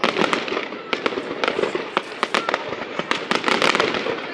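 Aerial fireworks display bursting: a rapid, irregular run of sharp bangs and crackles.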